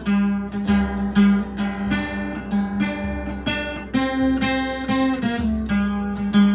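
Octave mandolin, converted from a D'Angelico 12-string guitar, played with steady strummed and picked chords in a tune, the chord changing every second or so.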